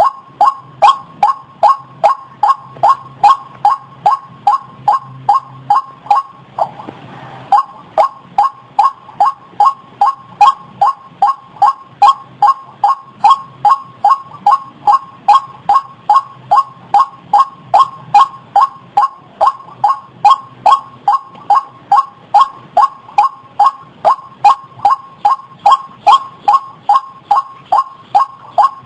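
White-breasted waterhen calling: a steady series of short repeated calls, about two a second, broken by a brief burst of noise about seven seconds in.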